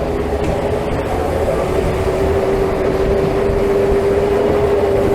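A vehicle running with a steady rumble and a single held whine that grows stronger from about two seconds in.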